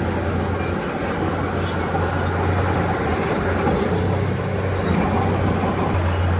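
Diesel engine of a Komatsu D31P crawler bulldozer running steadily under load, with a constant low hum and the general clatter of the machine at work.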